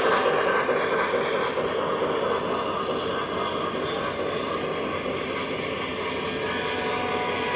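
O gauge model train running on its track: a steady whirring rumble of motor and wheels on the rails, easing off a little over the first few seconds.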